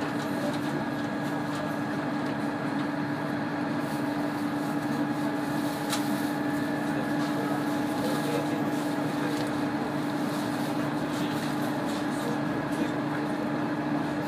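Steady drone of a KiHa 100 diesel railcar heard from inside the car, with a constant low hum and an even rumble and no change in level.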